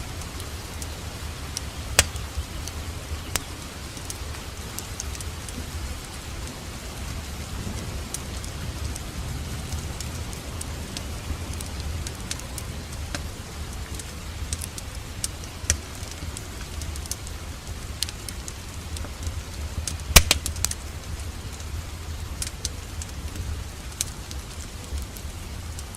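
Steady rain with a crackling wood fire: sharp pops and snaps scattered over the even hiss of the rain, the loudest snap about twenty seconds in.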